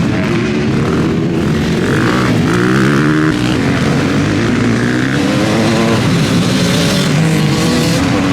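Motocross bike engines revving on the track, several at once, their pitch rising and falling as the riders work the throttle.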